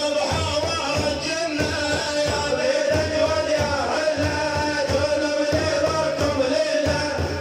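A male voice chanting a devotional song in praise of the Prophet Muhammad, holding long, wavering notes over steady drum beats.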